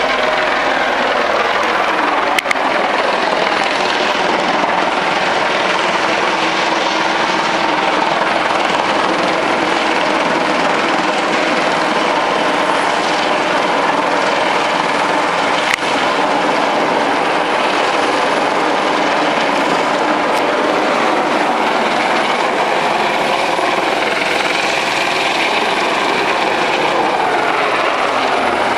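Helicopter hovering overhead, a steady noise that does not change, broken by two brief clicks.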